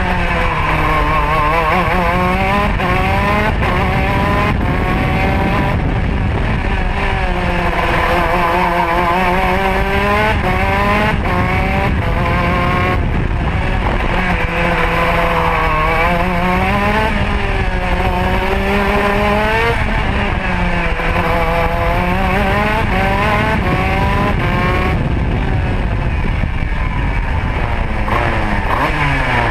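Modena two-stroke kart engine heard onboard, its revs repeatedly climbing under acceleration and dropping off, several times over, with wind rushing on the microphone. Near the end the revs fall away steeply.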